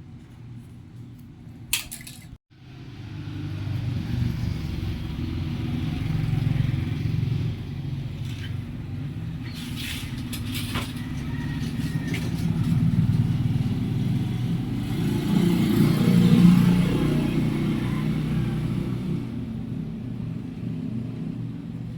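A motor vehicle engine running steadily, getting louder toward the middle and easing off again, with a few sharp clicks. The sound cuts out abruptly for a moment near the start.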